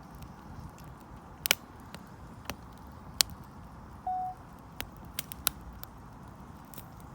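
Wood campfire burning, with a steady low rustle and irregular sharp crackles and pops. A short steady note, the loudest sound, sounds once about four seconds in.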